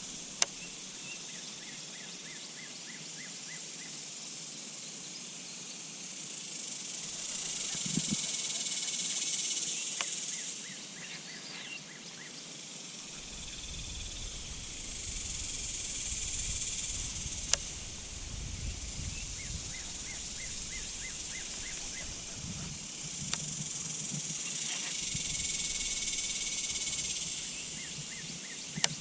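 Outdoor insect chorus: a high buzzing that rises and falls in swells of about three seconds, three times, with short rapid trains of chirps repeating between them. A few single sharp clicks, and a low rumble in the middle stretch.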